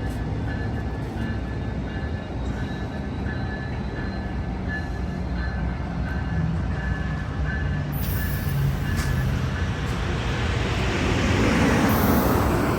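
Amtrak Capitol Corridor passenger cars rolling past as the train pulls out of the station: a steady rumble of wheels on rail with faint regular ticking, growing louder near the end.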